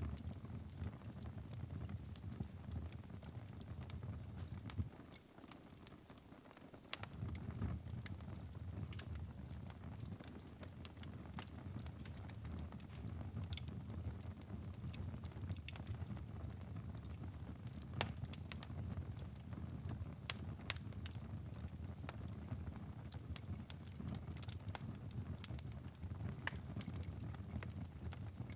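Wood fire in a fireplace crackling, with irregular sharp pops over a low steady rumble of the flames. The rumble drops away briefly about five seconds in, then returns.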